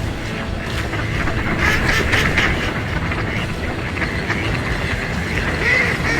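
A flock of birds calling together, many short overlapping calls, over a steady low rumble.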